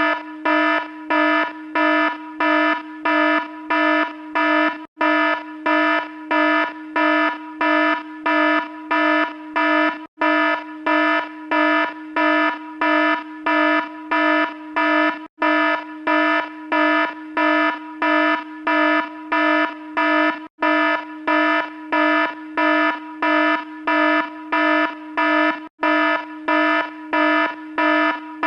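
Electronic alarm sound effect beeping in a harsh buzzy tone about twice a second, with a brief break roughly every five seconds where the effect loops.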